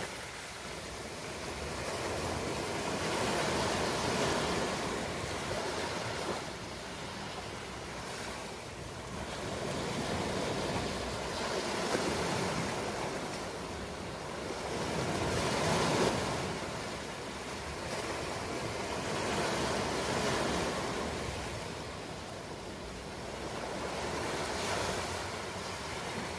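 Ocean waves breaking and washing on a shore, in slow swells that rise and fall every few seconds.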